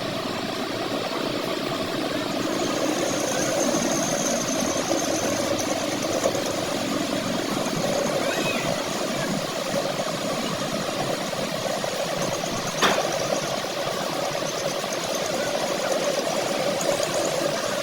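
Workshop machinery running with a steady drone, with one sharp tick about thirteen seconds in.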